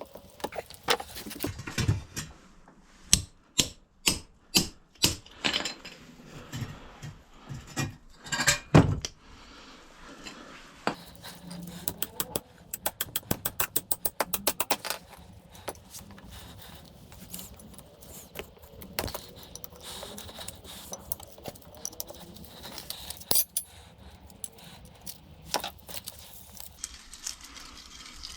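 Metal tools and parts of a hydraulic jack being handled during disassembly: a string of sharp metallic knocks and clinks for the first nine seconds or so. Then a rapid, even run of clicks, about nine a second, lasting a couple of seconds, followed by scattered lighter clicks.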